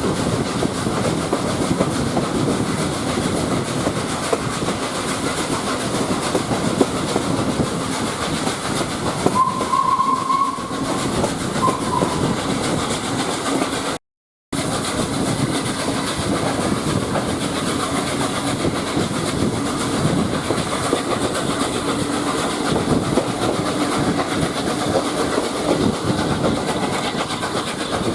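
Steady running noise of a railway carriage behind a steam locomotive: the rumble of wheels on the track with clickety-clack over rail joints. A short whistle sounds about ten seconds in, followed by a shorter one. The sound cuts out briefly just past halfway.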